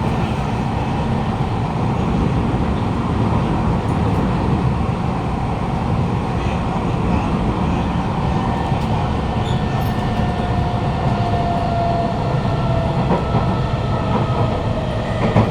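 Cabin of a moving Kawasaki Heavy Industries C151 metro train: steady wheel and track rumble with the whine of its GTO-VVVF traction motors underneath. A motor tone falls slowly in pitch over the second half.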